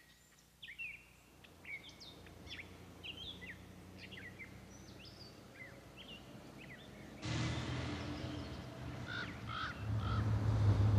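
Small birds chirping in many short, quick calls. About seven seconds in, a louder steady noise with a low hum sets in under them, and the chirps go on.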